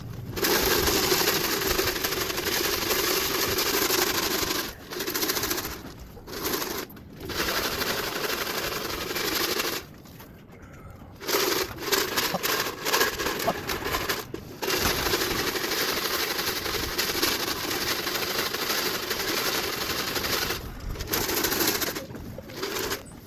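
Grain rattling in a shaken feed can, in spells of several seconds with short breaks, the usual call that brings young pigeons down into the loft trap.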